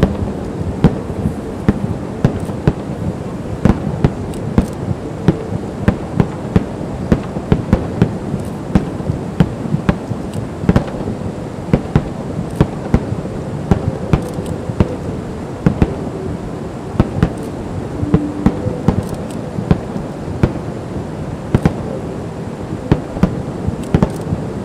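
Fireworks display: a dense, irregular barrage of sharp bangs and crackles, several a second, over a continuous low rumble of booms.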